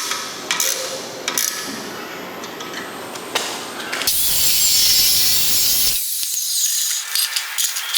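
Workshop tool work: clicks and scraping of metal parts being handled, then a louder stretch of power-tool noise from about four to six seconds in, followed by more clicking and scraping.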